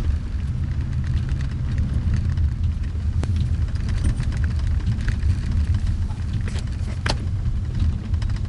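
Steady low rumble of a car driving, heard from inside the car, with two sharp clicks, one about three seconds in and one about seven seconds in.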